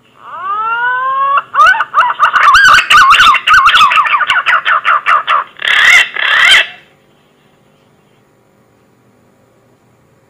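Punai (green pigeon) lure call: a few rising whistled glides, then a fast wavering, warbling whistle lasting about seven seconds in all. It is very loud and crackles with distortion before stopping.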